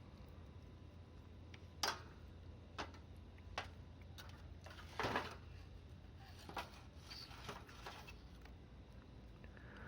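Wood campfire crackling: a few short sharp pops at irregular intervals, the loudest about halfway through, over a faint low steady background.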